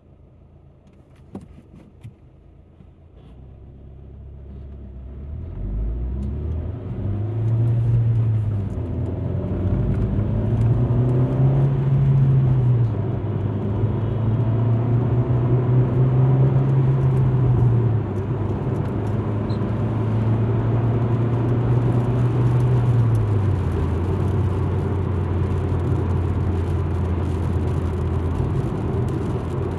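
Alfa Romeo MiTo pulling away from a stop and accelerating through the gears, the engine note rising and then dropping at each of several upshifts before settling into a steady cruise. Two short clicks come just before it moves off, and road noise grows with speed.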